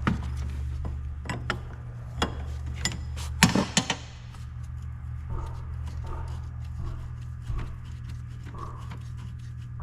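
Wrench clicking and clinking on metal brake line fittings as an 18 mm fitting on the hydroboost brake booster is worked loose. Sharp clicks come in the first few seconds, with a quick run of them about three and a half seconds in, then only soft knocks, all over a steady low hum.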